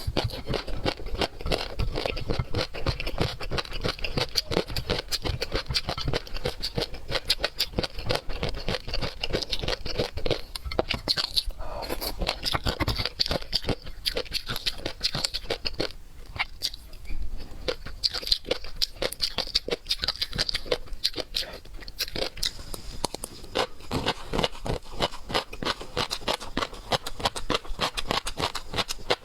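Close-miked eating of seafood: rapid, continuous wet chewing and mouth-smacking clicks, briefly thinner about two-thirds of the way through.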